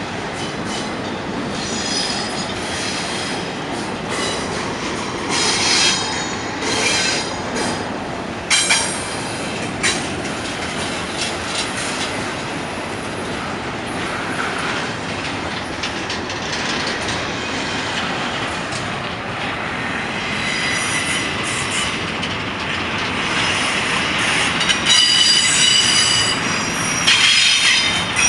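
Double-stack intermodal container well cars rolling past on a curve: a steady rumble of steel wheels on rail, broken by repeated high-pitched wheel squeal that comes and goes and grows loudest near the end, the wheel flanges grinding against the curved rail.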